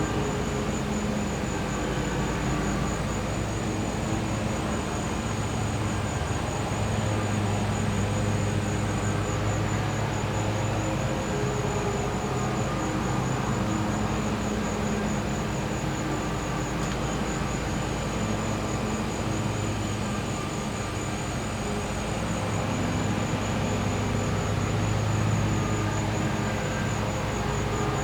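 Gas-powered generator running with a steady low hum that swells slightly now and then, under a continuous high, rapidly pulsing insect trill.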